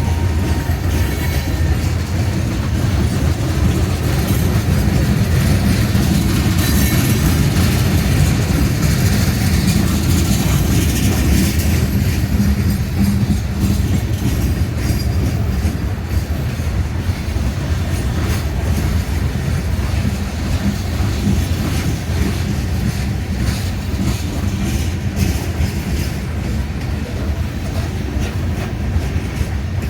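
Coal cars of a freight train rolling past: a steady low rumble with the clickety-clack of wheels over the rail joints.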